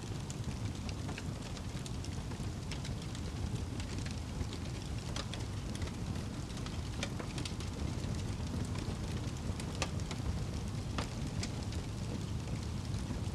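Wood fire crackling and popping, with irregular sharp snaps over a steady low rumble.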